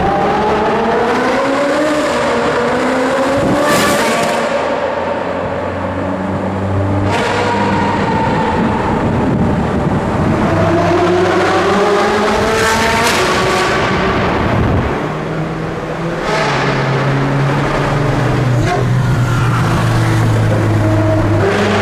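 Ferrari 458 Speciale's naturally aspirated V8 through a full iPE decat titanium exhaust, accelerating hard through the gears: the pitch climbs in several long pulls, each dropping back at an upshift. It is very loud.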